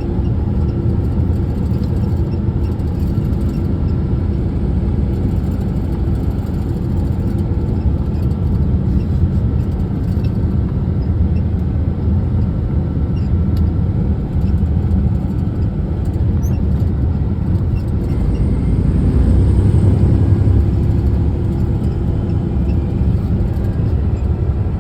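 Steady low drone of a big truck's engine and tyres on the road, heard from inside the cab while driving, swelling a little about three-quarters of the way through.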